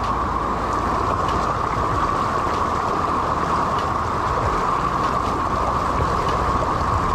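River water rushing steadily past, with a ragged low rumble of wind buffeting the microphone.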